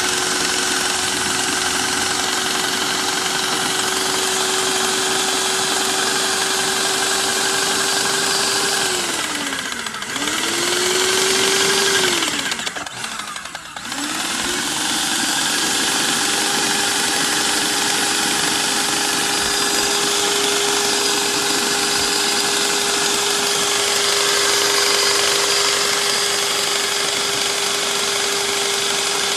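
Paint sprayer pump motor running steadily while the pump is flushed clean, with a hiss over it. It winds down about nine seconds in, starts again briefly, stops, and starts again about two seconds later to run steadily on.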